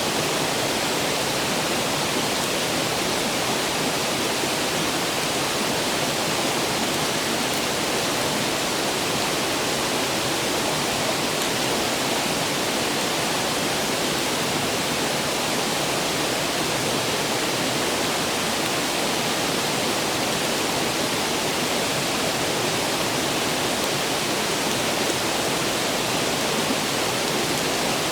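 Clear river water rushing steadily, an even, unbroken hiss of flowing water.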